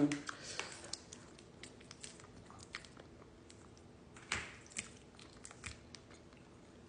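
Close-miked chewing: soft wet mouth clicks and smacks as food is eaten, with a louder smack about four seconds in.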